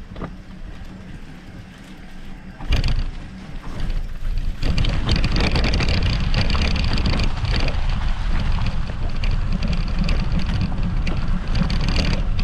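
Electric mountain bike being ridden over a forest trail: rumbling tyre and ground noise with wind on the microphone, with a sudden loud knock about three seconds in and much louder riding noise from about five seconds in.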